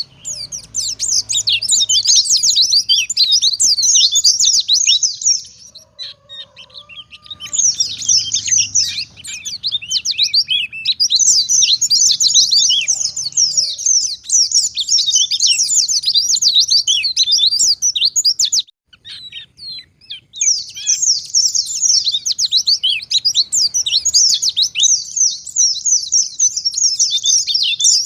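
A white-eye (pleci) singing a long, rapid, high twittering song, pausing briefly about six seconds in and again about two-thirds of the way through.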